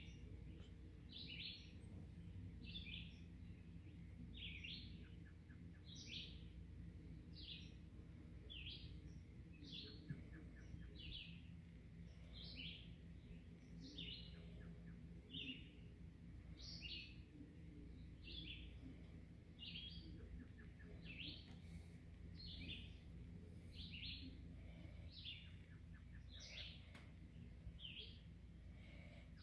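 A single bird calling the same short, high chirp over and over, about three chirps every two seconds, faint over a low steady background rumble.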